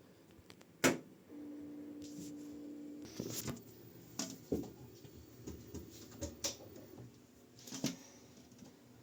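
Washing machine: a sharp click, then a steady low electrical hum for about two seconds, then a run of irregular clicks and knocks.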